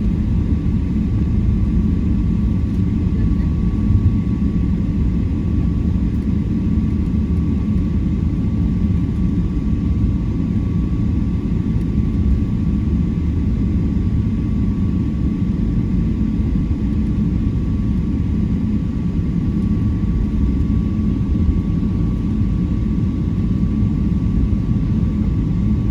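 Airplane engine noise: a steady low rumble with a thin, steady whine above it.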